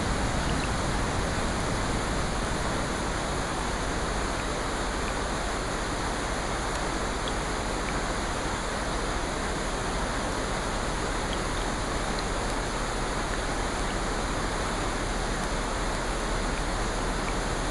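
Steady rain falling, an even hiss of water with a few faint drop ticks.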